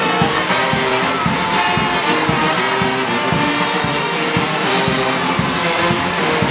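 Marching band music: held brass notes over a steady drumbeat.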